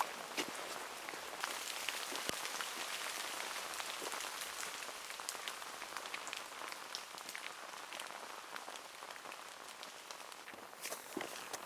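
Steady rain falling, an even hiss dotted with scattered sharp ticks of individual drops. The hiss thins near the end.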